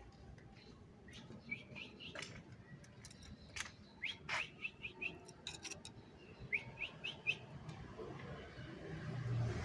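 Canary chirping in short, quick upward notes, in three brief runs, with a few sharp clicks among them. A rising rush of noise builds near the end.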